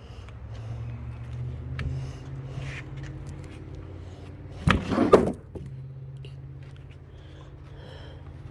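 Sawmill engine running steadily at a low idle, with one loud clattering knock, like a slab of wood being handled or dropped, about five seconds in.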